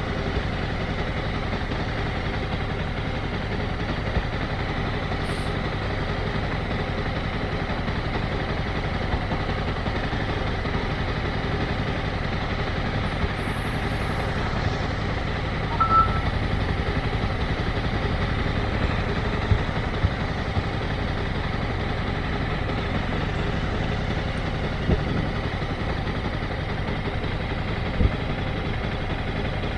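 Motorcycle engine running steadily, with a few brief knocks and a short high beep about halfway through.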